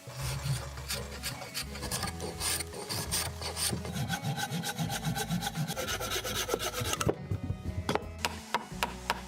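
A hand tool working wood in quick, repeated scraping strokes, like rasping or sawing timber.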